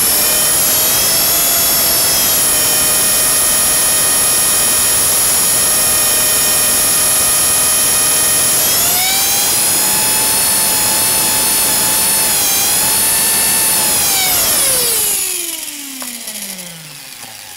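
Blade 300 X RC helicopter's electric motor and rotor whining at a steady high pitch, stepping up in pitch about nine seconds in and wavering briefly. Near the end it spools down, a falling whine that fades out.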